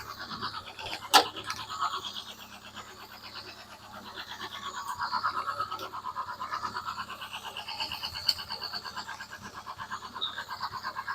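Freshly installed Ford 2.0 Pinto four-cylinder engine idling steadily just under 1,000 rpm, with a fast, even pulsing. There is a sharp click about a second in.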